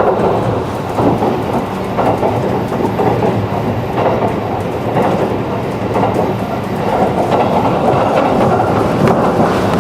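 JR 211 series electric train running on the line, heard inside the passenger car: a steady rumble of wheels on rail, with a click from the rail joints about once a second.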